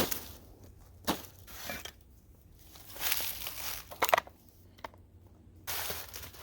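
Dry twigs and brush crunching and crackling in irregular bursts, with a few sharp snaps: at the very start, about a second in and about four seconds in.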